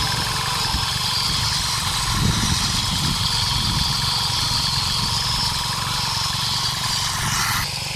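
Diesel engine of a hand tractor running steadily with a fast low chugging.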